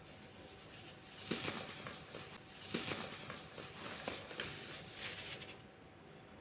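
Crunchy baking soda being crushed and crumbled: three bursts of crunching and crackling, each opening with a sharp crack, a little over a second in, near three seconds and around four seconds.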